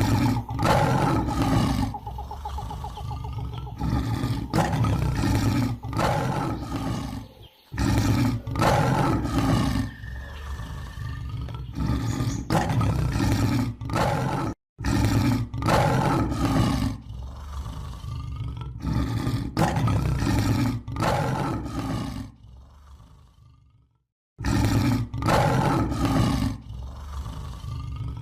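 Lion roaring again and again in a string of loud, deep roars, broken off abruptly a few times where the recording is cut.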